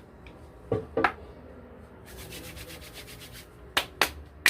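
Two short, sharp sounds about a second in. Then hands rub briskly together for about a second and a half, and a few quick slaps follow as aftershave is patted onto a freshly shaved face.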